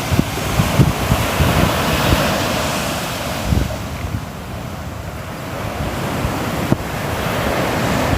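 Ocean waves breaking and washing in surf, a steady rush that swells and eases, with wind buffeting the microphone.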